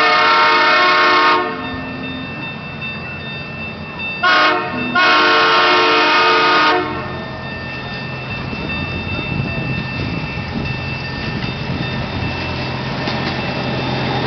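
Zoo train sounding its whistle: a blast that ends about a second in, a short toot, then a longer blast. After that comes the steady, slowly building rumble of the train running along the track.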